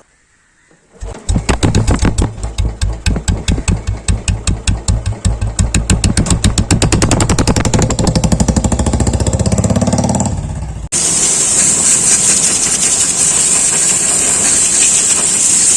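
Royal Enfield Bullet 350's single-cylinder four-stroke engine starting about a second in and running with a distinct slow thump, the beat quickening from about five to about ten a second. About eleven seconds in, the sound cuts abruptly to a steady loud hiss.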